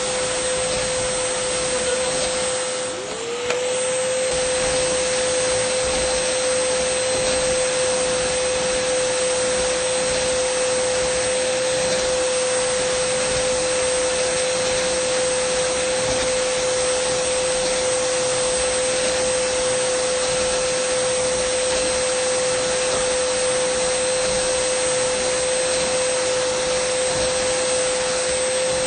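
Dyson vacuum cleaner running steadily: a rush of air with a steady whine. About three seconds in, the whine briefly drops in pitch and swings back up, with a click, then holds steady.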